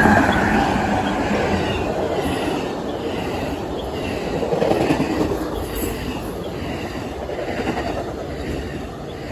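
Amtrak passenger train passing close by, its wheels clicking over rail joints about twice a second. The noise fades toward the end as the train moves away.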